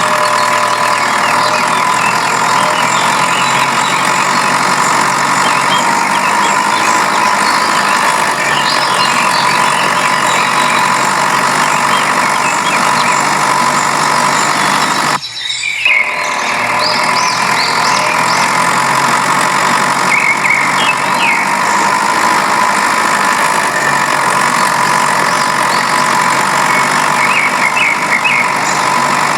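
DIY mini tractor's motor running steadily with a constant whine and some short squeaks, broken by a sudden cut of about a second roughly halfway through.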